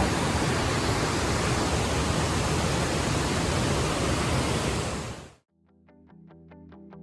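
Waterfall's steady rushing water noise, which cuts off suddenly about five seconds in. Background music with a steady beat then fades in.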